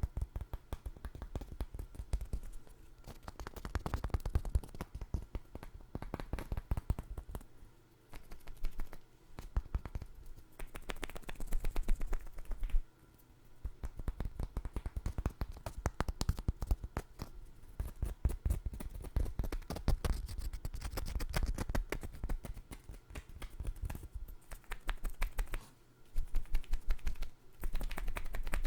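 Fingernails tapping and scratching on hard nut shells, rapid clicks in bursts of several seconds with short pauses between them, close to the microphone.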